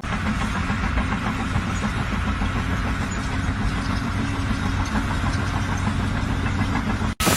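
An engine running steadily with a low, even hum under a rough noise. It cuts off abruptly near the end.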